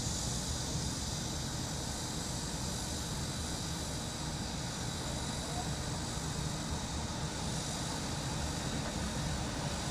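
Cicadas droning steadily over a low, continuous rumble of city traffic.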